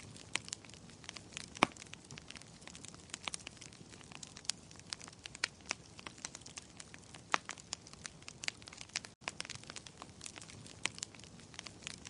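Wood fire burning in a fireplace: steady soft hiss with frequent sharp, irregular crackles and pops.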